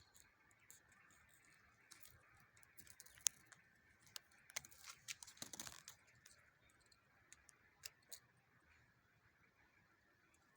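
Faint, scattered clicks and rustling over a near-silent background, with one sharp click about three seconds in and a brief flurry of rustling clicks around five seconds.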